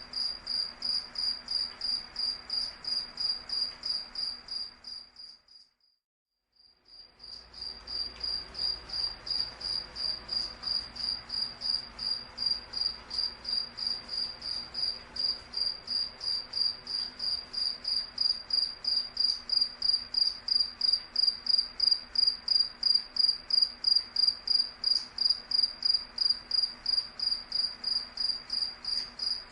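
A cricket chirping steadily, a high single-pitched pulse repeated about three or four times a second. The chirping fades out about five seconds in and fades back in a second or so later.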